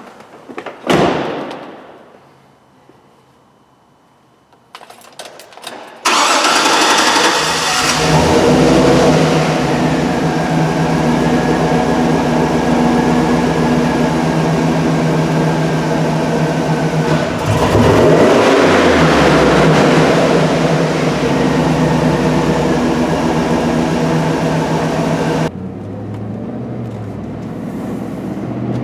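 A vehicle door shuts with a thud, then the 2008 GMC Sierra Denali's 6.2-litre V8 starts and runs at a steady fast idle, with a brief louder surge about two-thirds of the way through. Near the end it drops to a quieter, lower idle. It is being started after its idle learn was reset with a scan tool.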